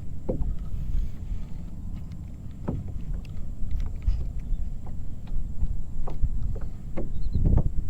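Water sounds on a fishing kayak: a steady low rumble with scattered short knocks and splashes against the hull at irregular moments.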